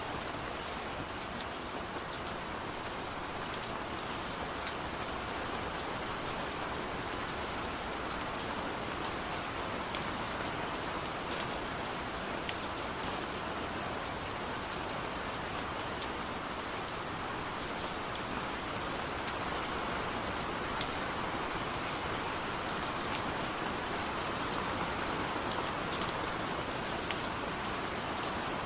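Steady rain with individual drops ticking sharply and irregularly against a surface.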